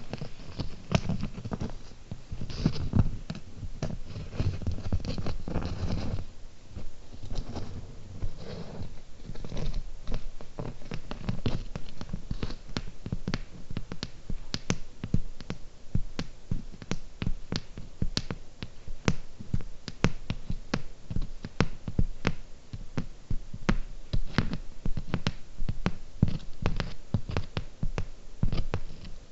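Close-miked ASMR fingernail tapping on small hard objects: rubbing and scratching with a heavy low thud for the first several seconds, then a steady run of quick, crisp taps, several a second.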